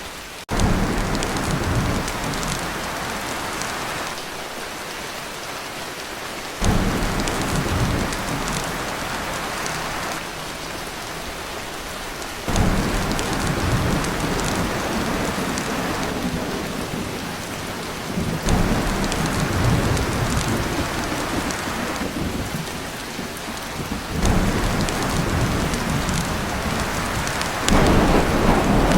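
Torrential rain drumming on a tin roof, with thunder rumbling through it. The low rumbles swell in abruptly about every six seconds.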